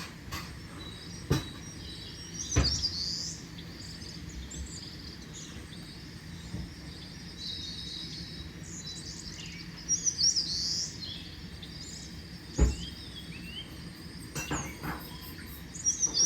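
Wild birds chirping and calling in a summer forest, many short high calls over steady low background noise. A few sharp knocks or clicks stand out, the loudest about two and a half seconds in and again near twelve and a half seconds.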